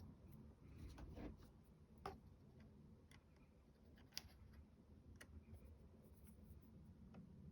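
Near silence, broken by a few faint, separate clicks and light taps from fingers and a pin handling small wooden clock-face pieces while gluing them on; the sharpest click comes about four seconds in.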